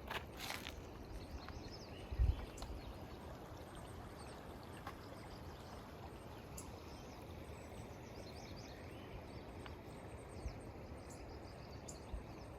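Steady outdoor background noise on a mountain trail, with a brief low thud about two seconds in and a few faint clicks and high chirps.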